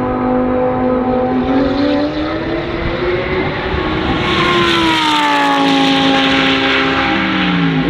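Lamborghini Huracan Super Trofeo EVO2 race car's naturally aspirated V10 at high revs: the pitch rises, then glides down as the sound peaks at its loudest and brightest, dropping again near the end.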